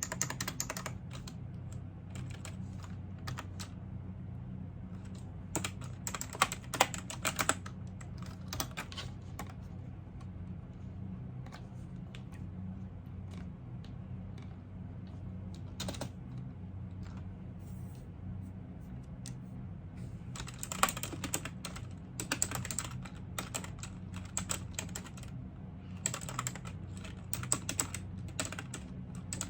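Typing on a computer keyboard in bursts of rapid keystrokes, with a long pause in the middle broken by a single keystroke, over a steady low hum.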